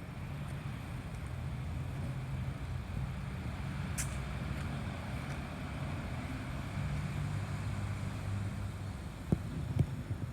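2008 Maserati GranTurismo's 4.2-litre V8 running steadily at a low, even note through a Kreissieg aftermarket exhaust. A sharp click sounds about four seconds in, and a couple of short knocks come near the end.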